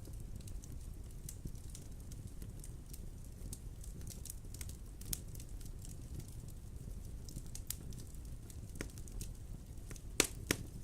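Wood fire burning in a fireplace, with a steady low rumble of flames and frequent small crackles. Two louder pops come near the end.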